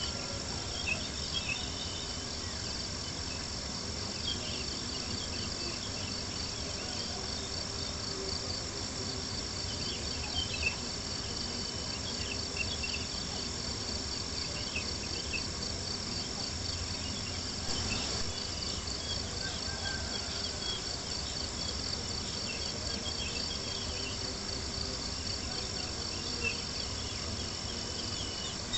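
Steady chorus of crickets chirping in a fast pulsing trill, with scattered small pops and crackles from a campfire over a soft, even low hiss.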